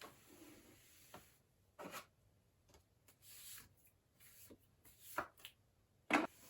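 Cleaning and handling noises: a few scattered light knocks and rubbing sounds, the loudest a sharp knock near the end.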